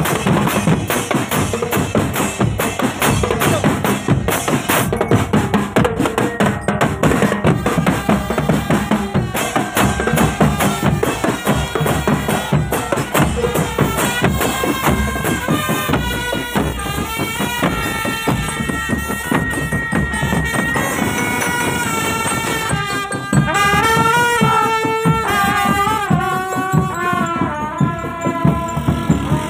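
Marching drumband playing: a dense, steady drum and percussion beat, with a melody line coming in over it about halfway through.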